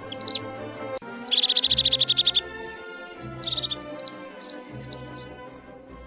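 A songbird singing short whistled phrases, with a fast trill about a second and a half in and more whistled notes near the middle, stopping shortly before the end. Soft background music plays underneath.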